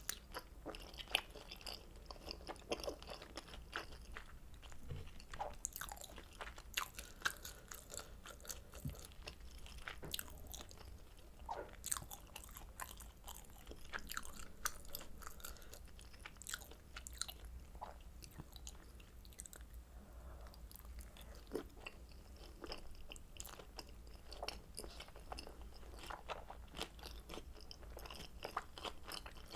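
Close-miked chewing and biting of kimchi dumplings dipped in carbonara buldak sauce: a steady run of small, sharp mouth clicks and soft crunches.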